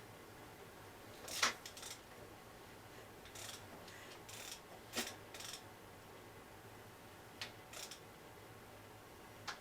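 Hand tools and small metal parts clicking and clinking against each other and the motorcycle engine, eight or so short, separate knocks with pauses between, the loudest about one and a half seconds in, over a faint steady hum.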